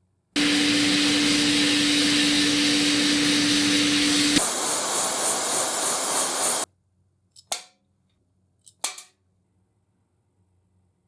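A power tool running with a steady hiss and hum for about four seconds, changing to a rougher hiss, then stopping abruptly, followed by two sharp clicks.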